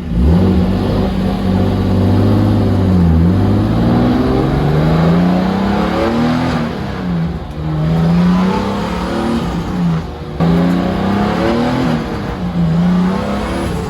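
Turbocharged BMW M50 straight-six engine accelerating hard through several gears, the pitch rising through each gear and dropping at each shift, running on only about 2 psi of boost.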